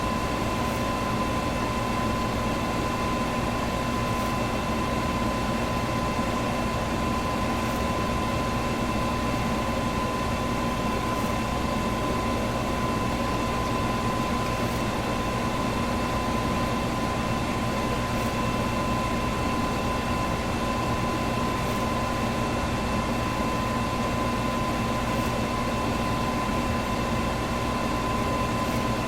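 Electric fan running steadily: an even rush of air with a constant hum and a higher steady whine running through it.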